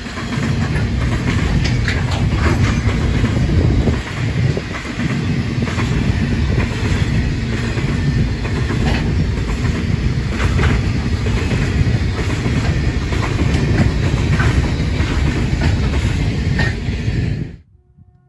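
Grain hopper wagons of a freight train rolling past at track side: a loud, steady rumble of wheels on rail with scattered clicks and clacks. It cuts off suddenly near the end.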